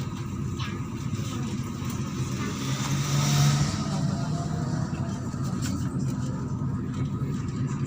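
MAZ-103 city bus's diesel engine running steadily as the bus drives, with a brief burst of hiss about three seconds in.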